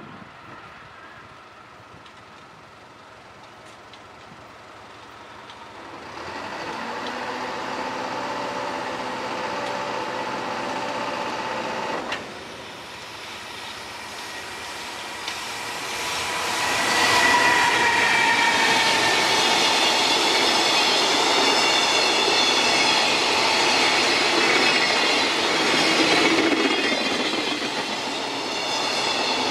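A train passing on the line, growing louder about six seconds in and loudest from about seventeen seconds on, with wheels clattering over the rails and a high whine over the rumble.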